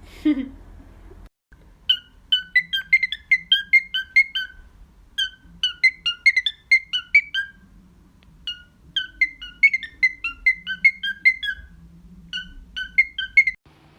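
A pet bird whistling a rapid tune of short notes on about three pitches, a few notes a second, in repeated phrases with brief pauses.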